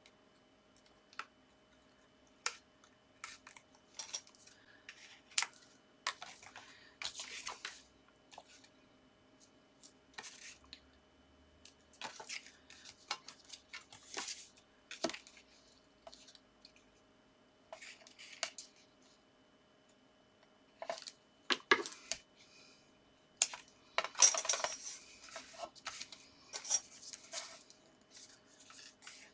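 Paper and card being handled on a craft table: scattered light taps and clicks with short rustles, busier about a third and three quarters of the way through, over a faint steady hum.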